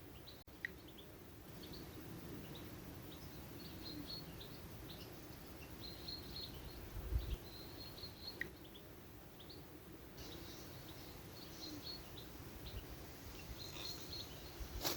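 Faint bird chirps: short, high calls scattered throughout over a quiet outdoor background. A single low thump comes about seven seconds in.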